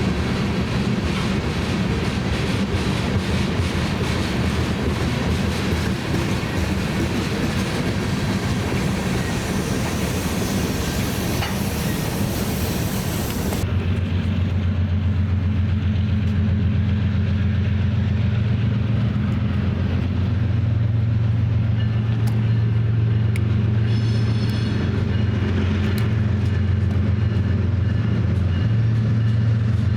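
A BNSF train running by: a steady rush of rail noise that changes abruptly, about halfway through, to a steady low drone of diesel locomotive engines. There is a brief high-pitched ring about three quarters of the way in.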